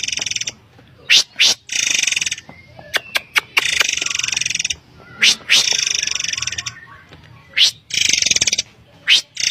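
Murai air bird calls used as a lure recording: one or two sharp, quick upswept whistles, each followed by a harsh buzzy rattle lasting about a second, repeated about every two seconds.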